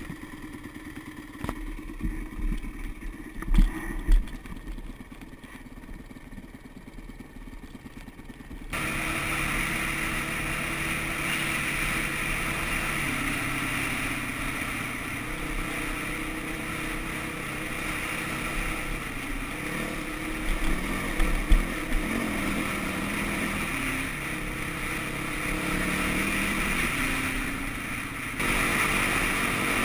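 Dirt bike engine running under way, its pitch rising and falling with the throttle, with low thumps from wind and bumps on the microphone. The engine is faint for the first nine seconds or so, then suddenly much louder.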